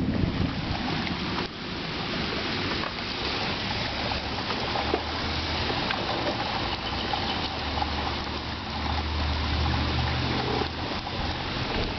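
Steady hiss of rain and running water, with a low rumble that comes in twice in the middle.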